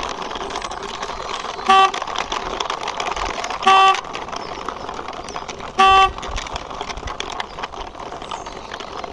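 Plastic wheels of a toy quad bike rolling as it is pushed by hand, a steady rough rolling noise. Three short horn beeps, about two seconds apart, stand out above it.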